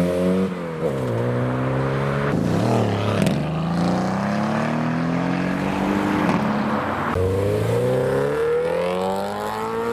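Car engine accelerating, its pitch climbing steadily and then dropping back at gear changes, twice over.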